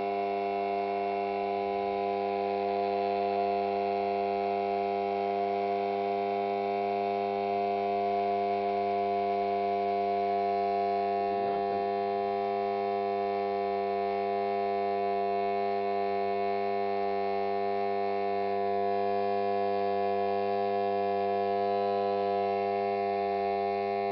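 Mains transformer humming steadily at the mains pitch and its overtones, powering a homemade HHO electrolysis cell through a bridge rectifier.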